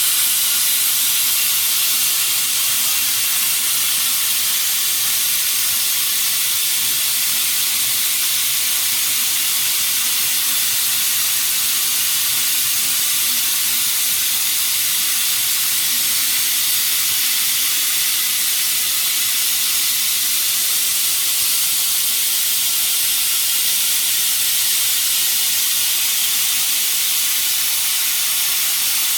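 Plasma torch of a CNC pipe-cutting machine cutting round pipe: a loud, steady hiss, heaviest in the high pitches.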